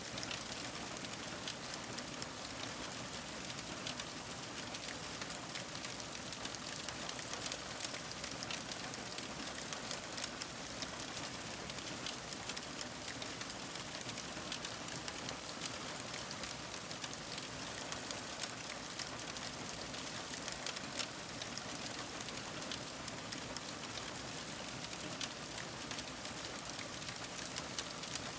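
Fire crackling steadily: a soft hiss dotted with many small, irregular pops and snaps.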